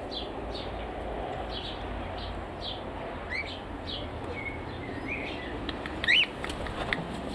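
Aviary birds chirping, with short high chirps every half second or so and one louder rising call about six seconds in, over a steady low rumble.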